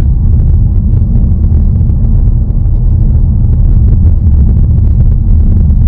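2019 Ford Mustang Bullitt's 5.0-litre V8 and road noise heard from inside the car while driving, a loud, steady low rumble with no revving.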